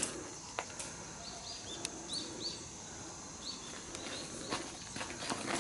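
A small bird calling in short rising chirps, repeated in small groups of two or three, with a few footsteps on stone paving.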